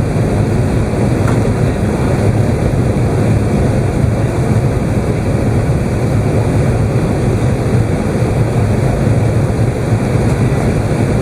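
Steady cabin rumble inside an Airbus A380's upper deck: engine and airflow noise running evenly, heaviest in the low end, with no distinct events.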